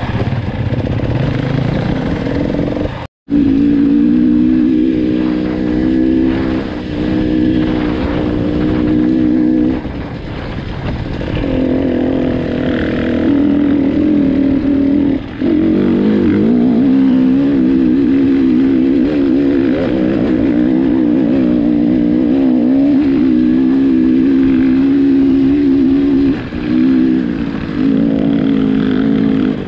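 Enduro motorcycle engine running under load as it is ridden, its pitch rising and falling with the throttle and easing off briefly a few times. The sound cuts out completely for a moment about three seconds in.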